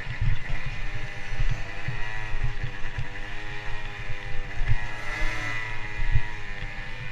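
Motocross dirt bike engine running under changing throttle, its pitch rising and falling, with irregular low thuds underneath.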